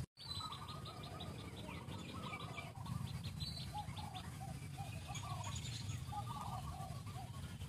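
Birds chirping: a rapid run of high, quick chirps in the first couple of seconds, with shorter repeated calls throughout, over a steady low rumble.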